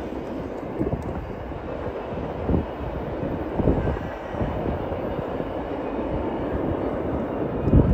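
Train rolling past: a steady low rumble with a few heavier thumps.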